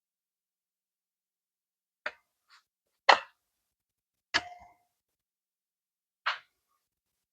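A few short, sharp handling clicks and knocks, the loudest about three seconds in. One, a little after four seconds, has a brief metallic ring. Between them there is dead silence.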